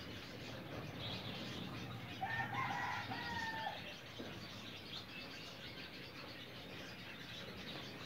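A budgerigar chick being hand-fed from a small cup, with faint chirps and fluttering. A rooster crows once, about a second and a half long, a couple of seconds in.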